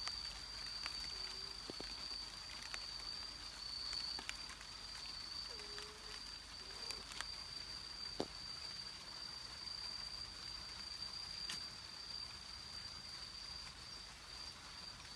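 Faint calls from an unidentified night animal, bird or mammal: a short low note about a second and a half in, then a couple of wavering low notes around six to seven seconds. Under them runs a steady high-pitched tone, with scattered faint clicks.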